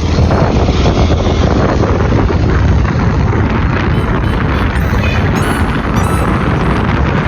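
Wind buffeting the microphone on a moving motorcycle, a loud steady rumble with the bike's engine running underneath.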